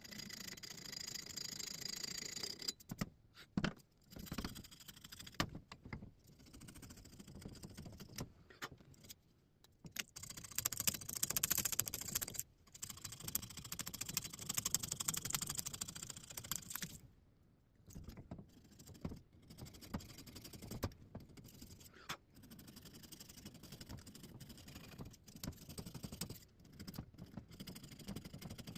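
Paint being scraped off a steel axe head by hand: irregular rasping, scratchy strokes that come in stretches with short pauses between them.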